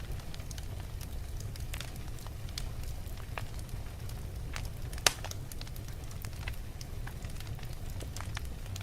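Wood fire burning in a fireplace, crackling with scattered small pops over a low steady rumble, with one loud sharp pop about five seconds in.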